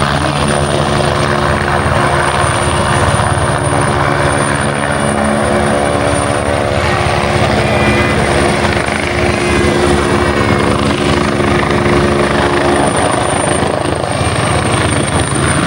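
Helicopter hovering: a steady, continuous deep hum of rotor and engine, with a thin high whine running above it.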